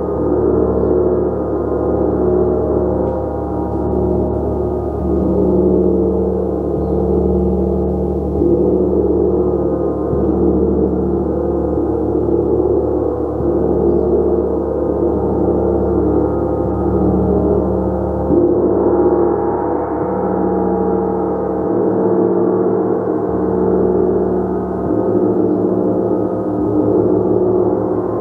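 Gong played continuously, a dense wash of sustained overlapping tones that swells and eases every couple of seconds.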